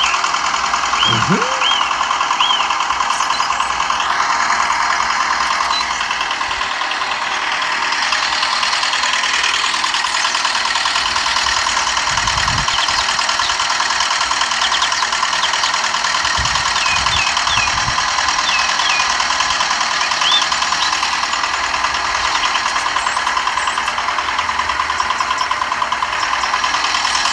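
Small motor of a homemade mini tractor running steadily with a continuous buzz. Birds chirp briefly near the start and again past the middle, and there are a few low thumps.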